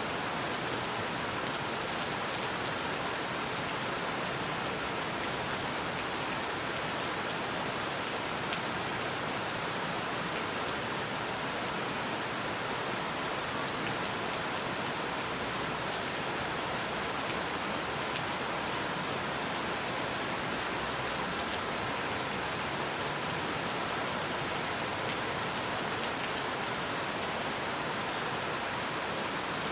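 Steady rainfall, an even hiss of rain with fine, dense patter of individual drops, unchanging throughout.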